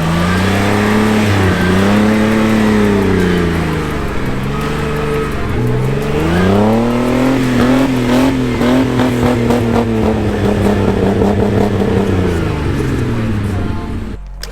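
Jeep engine revving hard in bursts while climbing a snowy trail, the revs rising and falling, then held high for several seconds in the middle before dropping off near the end.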